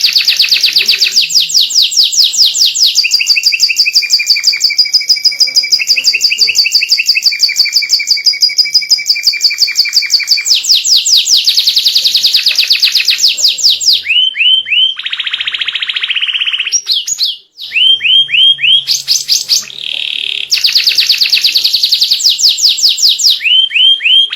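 White canary singing a long, loud song of rapid repeated trills. The phrase changes every few seconds, with a short break about two-thirds of the way through.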